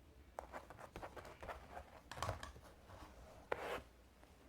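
Faint scattered clicks and rustles of small plastic toys being handled and moved on a surface, with a short louder rustle about three and a half seconds in.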